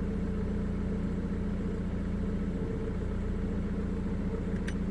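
Jaguar X-Type car engine idling with a steady, even hum.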